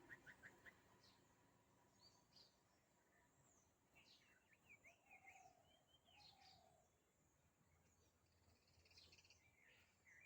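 Faint birdsong: scattered short chirps and whistles from several birds, opening with a quick run of about five short notes, with two lower drawn-out calls midway.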